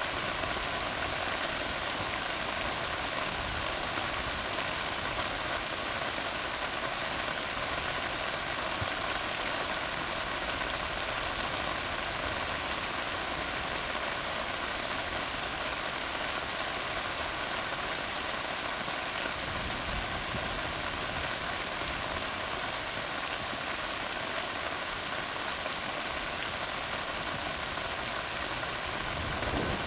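Steady rain falling on a tar road: a dense, even hiss with scattered individual drop ticks.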